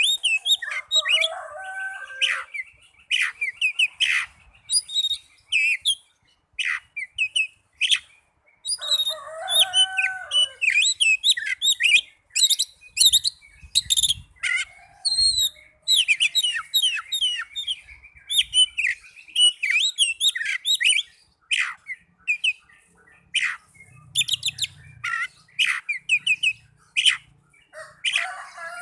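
Oriental magpie-robin (kacer) in full song: a long, varied stream of quick whistles, chirps and trills with only brief pauses, the kind of song used as a lure to set other kacer singing.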